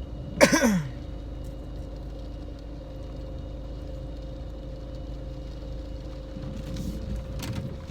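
Car running at idle, a steady low hum, with a short loud cry that falls in pitch about half a second in.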